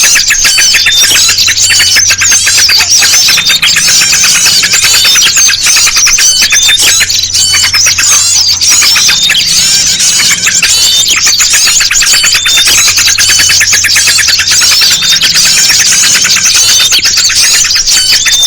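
Dense, loud chorus of many small songbirds chirping and trilling over one another without pause: a bird-lure recording mixing noisy bulbul (trucukan) calls with other small birds. A low steady hum runs underneath.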